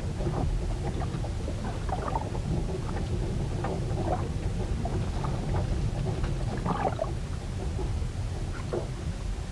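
Storm noise aboard a ship: wind and water making a heavy, steady low rumble, with short irregular knocks and splashes scattered over it.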